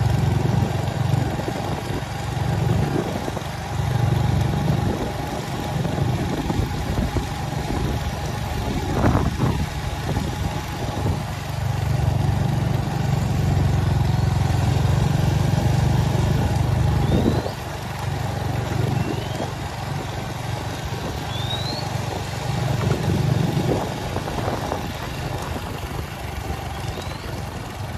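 Vehicle engine running, its sound swelling and easing, with a drop in level about two-thirds through. A few faint short high chirps come in the second half.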